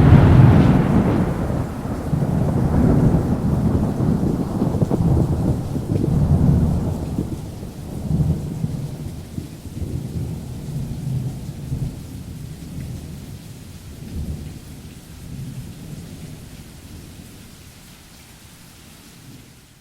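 A sharp clap of thunder followed by long rolling thunder that rumbles in uneven swells and slowly fades, with rain falling steadily.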